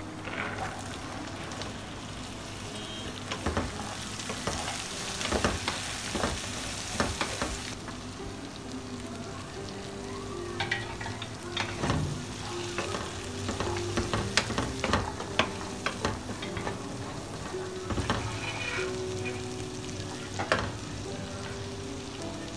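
Boiled black chickpeas, sliced onion and green chilies sizzling in hot oil in a wok, stir-fried with a wooden spatula that scrapes and knocks against the pan again and again.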